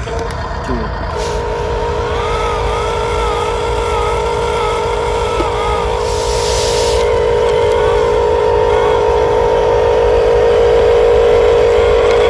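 Electric motors of radio-controlled construction models whining steadily and slowly growing louder, with a second wavering motor tone for a few seconds. A short hiss comes about six seconds in.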